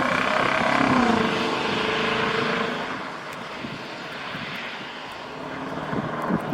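The 5.0 V8 exhaust of a Genesis Prada, through a custom valved exhaust with the resonator deleted, its pitch falling as it eases off and fading over about three seconds. Near the end a low, uneven burble picks up again.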